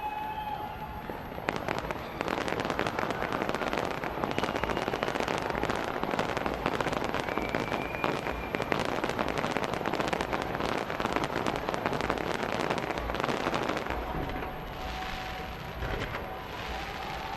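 New Year fireworks display: a dense, continuous barrage of crackling and popping firework bursts, many rapid bangs, easing off a few seconds before the end.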